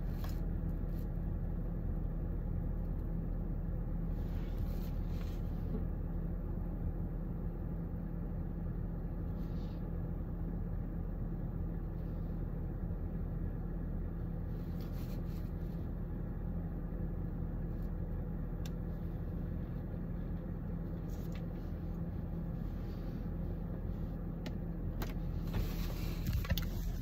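Steady low hum of a car's engine idling, heard from inside the cabin. Some rustling handling noise near the end.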